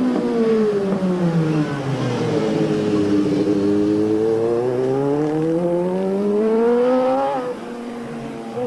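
Racing superbike engine on a street circuit, its revs falling for about three seconds and then climbing steadily for about four as it accelerates, before dropping sharply near the end.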